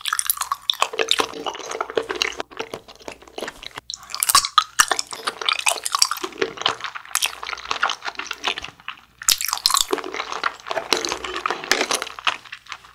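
Close-miked chewing of a kyoho grape jelly ball: a dense run of sticky mouth sounds, with short pauses about four and nine seconds in.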